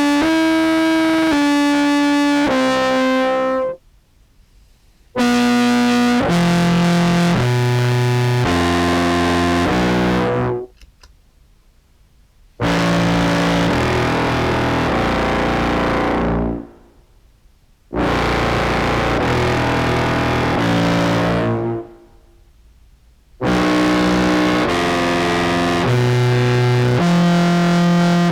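Contrabass clarinet played through an EHX POG2 octave pedal set two octaves down, into a Behringer Brassmaster fuzz, giving a raspy, distorted tone. It plays four phrases of held notes that step in pitch, and each phrase dies away in a short tail before the next begins.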